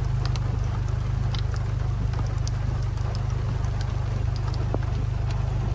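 Heavy rain pattering and ticking on a car's roof and glass, heard from inside the car over a steady low rumble from the vehicle.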